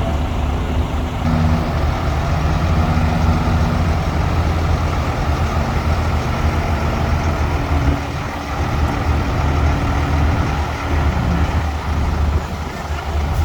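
Heavy diesel engines of the dump truck and bulldozers running steadily, a deep continuous drone.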